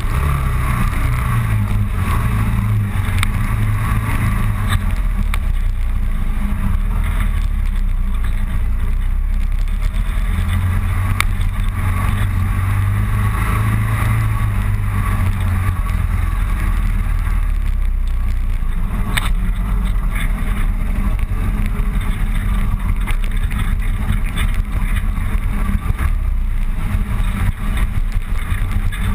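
Motorcycle engine running steadily while riding along a road, a continuous low rumble that rises and falls slightly with throttle, under rushing wind noise.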